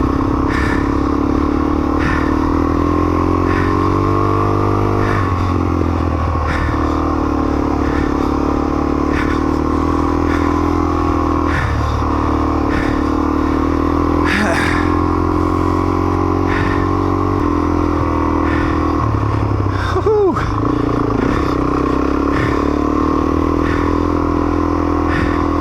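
Motorcycle engine running steadily as the bike is ridden off road. The engine note shifts in pitch a few times, as the revs change about a quarter, half and three-quarters of the way through.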